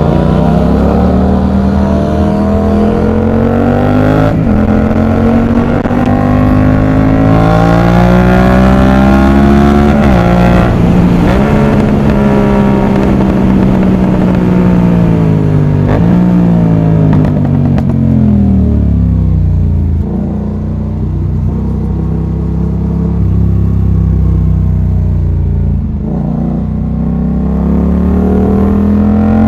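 Yamaha MT-07's CP2 parallel-twin engine through an aftermarket exhaust, revving up through the gears with the pitch dropping at each upshift about 4 and 10 seconds in. The revs then fall away with a couple of downshifts, stay low for several seconds, and climb again near the end.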